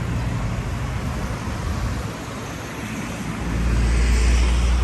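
Road traffic going by, with a heavier low rumble swelling in about three and a half seconds in as a vehicle passes close.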